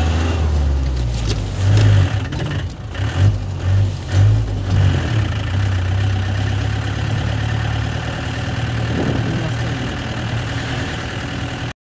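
Car engine drone and road noise heard from inside the cabin, with a few louder bumps between about two and five seconds in; the sound cuts off suddenly near the end.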